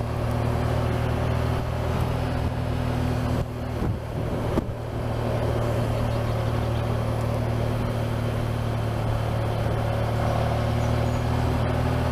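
Honda Crosstourer's V4 engine running at a steady cruise, with wind rush over the microphone. The engine note dips briefly about four seconds in, then settles back to the same steady drone.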